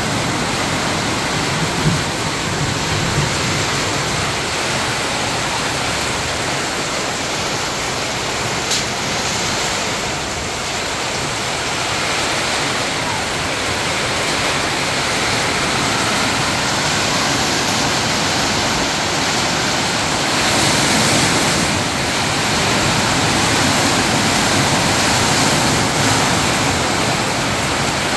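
Heavy rain pouring down steadily onto canopies, tarps and the flooded pavement, a dense, even hiss. The downpour swells a little louder about two-thirds of the way through.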